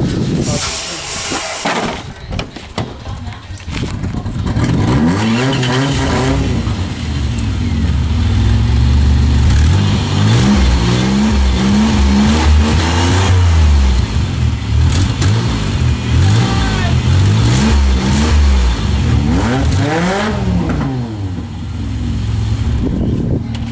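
Minivan engine running through a newly fitted Flowmaster muffler that is not yet welded on, revved up and down several times, then settling to a steady idle near the end.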